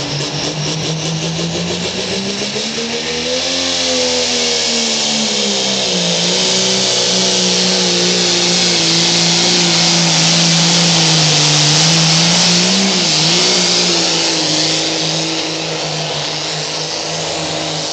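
A pulling tractor's engine running hard under load during a pull, loud, with a strong hiss over it. Its pitch climbs about two seconds in, falls back, holds high and fairly steady through the middle with a brief dip, and the loudness eases off near the end.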